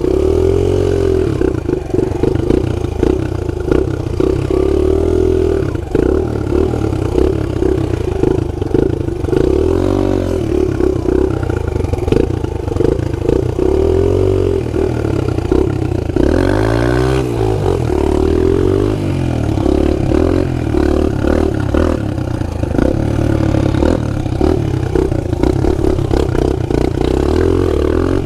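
Pit bike's small four-stroke single-cylinder engine running and being ridden, its pitch rising and falling over and over as the throttle is opened and closed.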